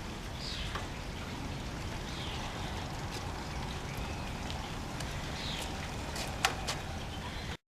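Drip coffee maker brewing: a steady watery hiss with a few faint clicks scattered through.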